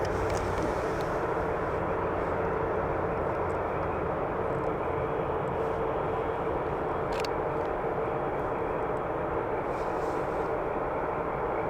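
Arriving jet airliner's engines: a steady rushing roar with a steady whine running through it, plus one sharp click about seven seconds in.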